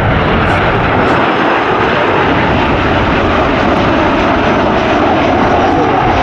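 Twin-engine jet airliner's engines running loud and steady, a dense roar of jet noise with a slight rise in a mid-pitched tone about five seconds in.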